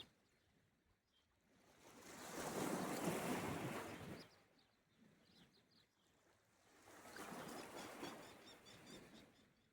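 Sea waves washing onto the shore, two waves in turn, each swelling up and then falling away.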